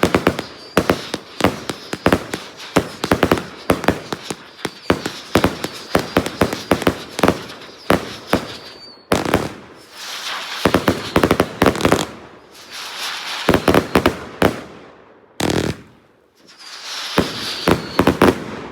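Funke Goldbomber firework going off: a fast, dense string of sharp bangs for about nine seconds, then several separate volleys of crackling, hissing bursts with short gaps between them.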